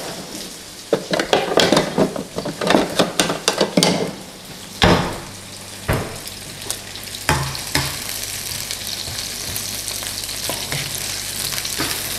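Garlic, onion and green chilies sizzling in hot oil in a non-stick wok while a spatula stirs them, scraping and knocking against the pan in quick clicks for the first few seconds, with a few more knocks after. The sizzle then goes on steadily.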